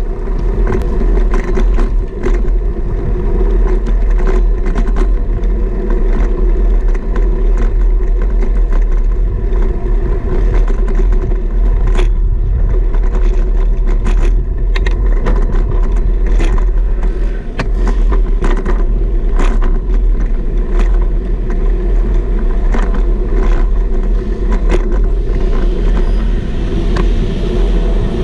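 Riding noise picked up by a GoPro mounted on a bicycle's stem: a loud, steady low rumble of wind and road, with frequent sharp clicks and rattles from the bike and mount over the road surface.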